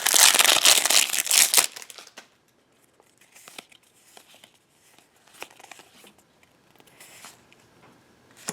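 Foil booster-pack wrapper crinkling and tearing loudly for the first couple of seconds, then only faint ticks and light rustling of cards being handled, with one sharp click near the end.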